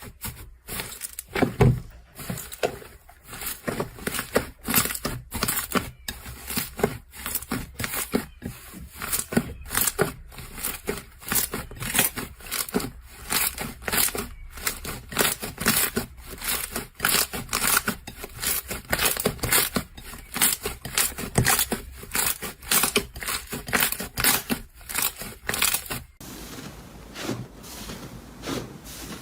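A crunchy material being crushed, giving a dense run of sharp crackles and crunches. The crackling stops about 26 seconds in, leaving a softer hiss.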